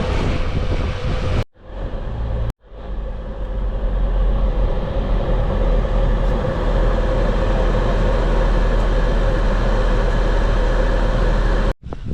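A vehicle engine running steadily with a low rumble and a steady drone, broken by abrupt cuts twice early on and once near the end.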